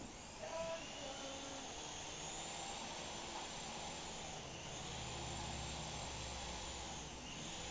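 Syma S107G micro RC helicopter spinning up and whirring in flight, a high-pitched electric-motor whine from its small coaxial rotors. The pitch sags twice and climbs back.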